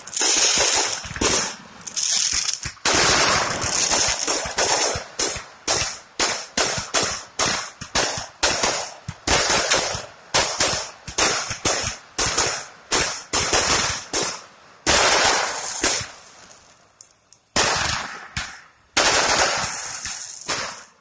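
Aerial fireworks going off in a dense run of sharp bangs, several a second, with crackle filling the gaps. After about fifteen seconds the barrage thins to a few single bangs, each trailed by crackle.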